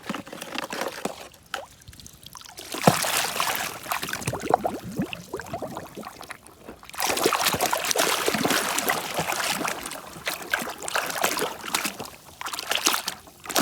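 Water pouring and splashing over a muddy toy vehicle as it is washed by hand, with small knocks and clicks of handling. The water starts about three seconds in and breaks off briefly near the middle.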